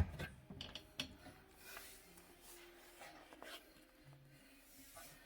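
Quiet hand-work noises from adjusting a dishwasher's leveling leg: a few sharp knocks in the first second or so, then faint rubbing.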